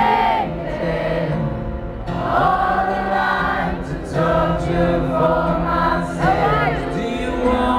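Live rock band playing a slow song, with sung vocal phrases of a few seconds each over sustained held notes.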